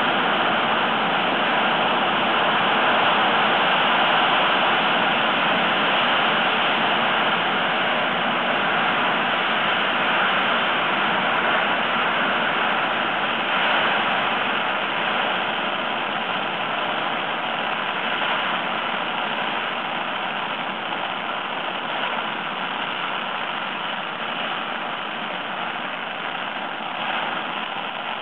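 A long firecracker string going off, its bangs so dense that they run together into one continuous loud crackle that eases slowly over the later part.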